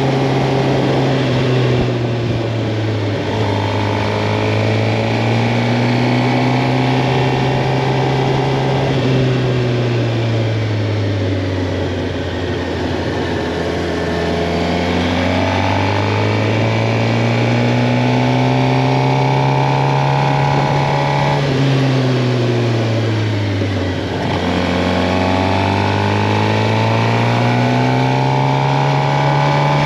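2023 Suzuki GSX-R 750's inline-four engine under way: its pitch sinks slowly over the first dozen seconds, then climbs, drops sharply about twenty-one seconds in, dips, and climbs again. A steady rush sits underneath.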